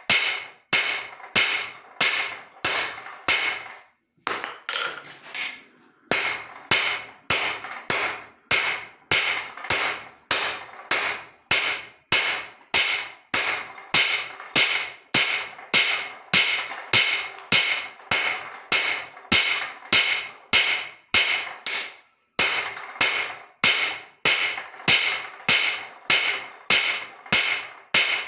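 Hand hammer forging steel on an anvil: a steady rhythm of about two blows a second, each with a bright ringing tail. After a short break a few seconds in the blows come lighter for a moment, and there is another brief pause near the end.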